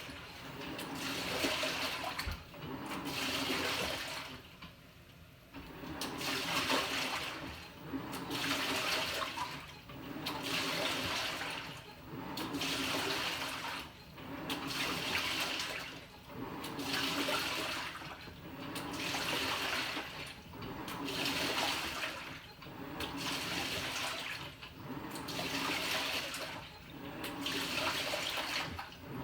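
Panasonic NA-FA100H9 top-loading washing machine agitating its load in water: the pulsator turns back and forth, churning and sloshing the water in swells about every two seconds, with a short lull about five seconds in.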